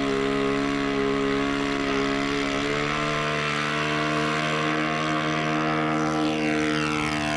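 Glow-fuel engine and rotors of a radio-controlled UH-1 Iroquois scale model helicopter running steadily in flight, the pitch easing slightly about three seconds in and the higher tones sweeping as it moves near the end.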